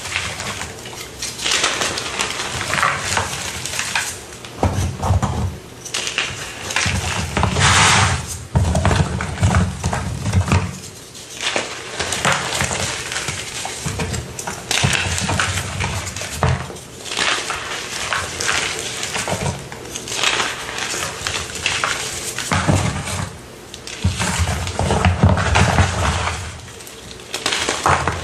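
Close-up crunching of a brittle material, coming in bouts of a few seconds with short pauses between.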